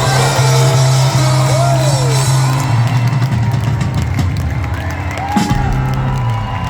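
Live rock band playing loudly, with the crowd shouting and whooping over it.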